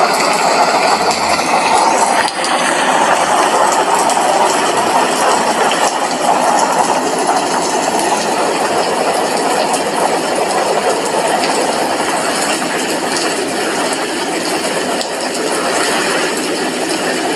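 Steady rain with drops hitting window glass, a dense even patter.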